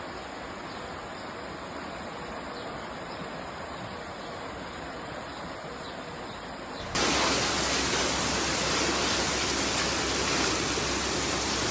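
Floodwater rushing: a steady noisy rush that jumps abruptly to a louder, fuller rush about seven seconds in.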